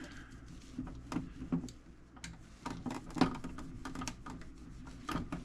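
Light, irregular taps and clicks with faint rubbing as a microfiber cloth buffs wax off a sheet-metal tool box.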